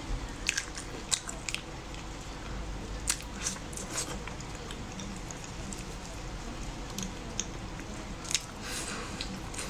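Close-up chewing of braised pig trotters, with irregular wet mouth clicks and a few sharper clicks.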